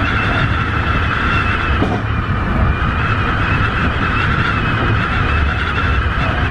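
Tobu 50090 series electric train running at steady speed, heard from inside the car: a constant low rumble with a steady high whine over it.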